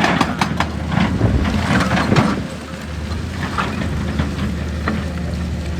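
Heavy diesel engine running steadily, with a burst of clattering knocks in the first couple of seconds and a few scattered knocks after.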